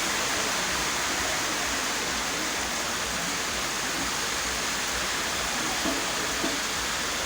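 Heavy rain falling as a steady, dense hiss.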